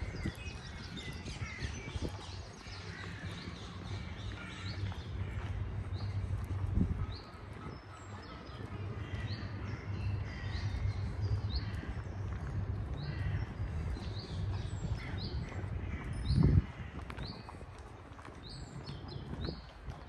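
Small birds chirping, short high calls every second or so, over a steady low rumble. Two low thumps break through, the louder one near the end.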